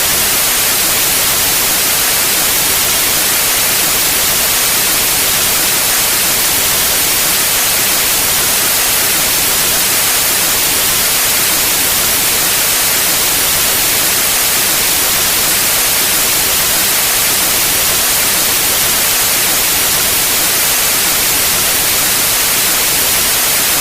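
Steady white noise: an even, unchanging hiss spread across all pitches, brightest in the treble.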